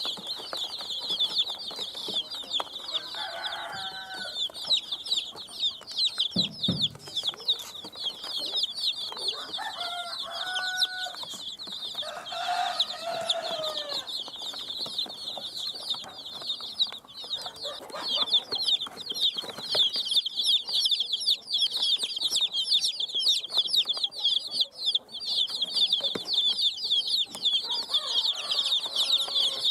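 A brood of baby chicks peeping constantly, many high, short, falling peeps overlapping without a break. A hen clucks a few times in lower calls, about three seconds in, around ten seconds in and again just after.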